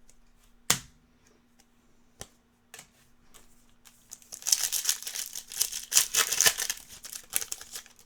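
Foil trading-card pack wrapper crinkling and tearing, a dense crackly rustle from about halfway through to the end, after a few light clicks of cards being handled. A faint steady electrical hum runs underneath.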